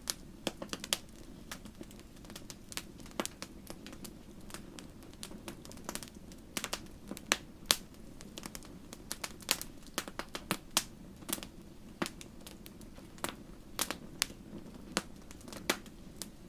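Fireplace fire crackling: irregular sharp pops and snaps, several a second, over a low steady hiss.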